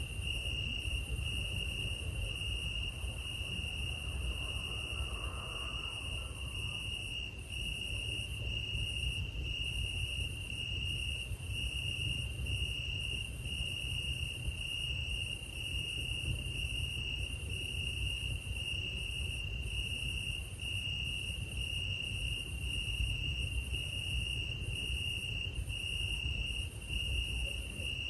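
Night crickets chirping steadily in an even, repeating rhythm of short high chirps, over a low background rumble.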